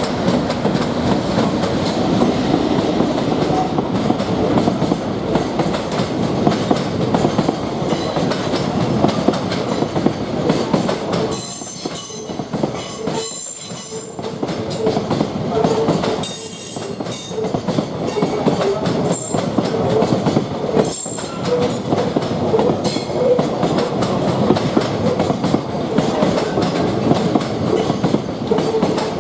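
A freight train's wagons roll past on the Tokaido main line, wheels clattering over the rail joints in a continuous clickety-clack. The noise dips briefly about halfway through, and a thin squeal from the wheels runs through the second half.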